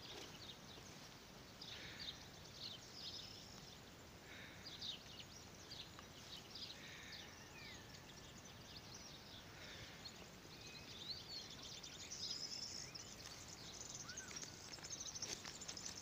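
Faint birds chirping and whistling now and then, with a few quick sliding calls, over a low steady hiss of open-air ambience.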